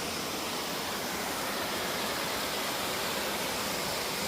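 A steady, even rushing hiss with no change in level.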